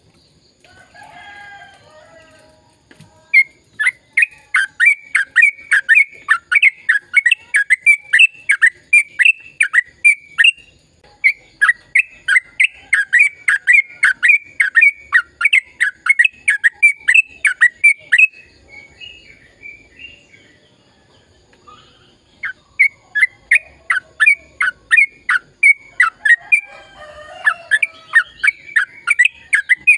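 Yellow-vented bulbul (trucukan) singing long, fast runs of sharp chirping notes, about four a second, in three extended bursts with a pause of a few seconds past the middle.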